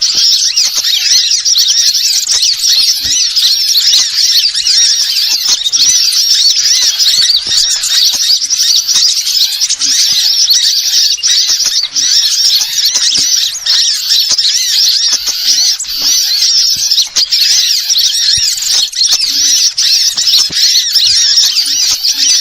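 A dense, continuous chorus of many small birds chirping and twittering rapidly at high pitch, without pause.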